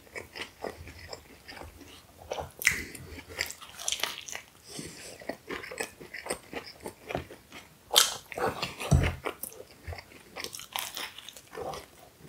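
Close-up chewing and biting of a falafel wrap: wet, crunchy mouth sounds with irregular small crackles and clicks, and a louder crunch about eight seconds in.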